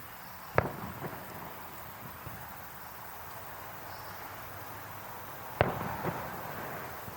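Aerial firework shells bursting twice, about five seconds apart. Each burst is a sharp bang followed by a short echoing rumble.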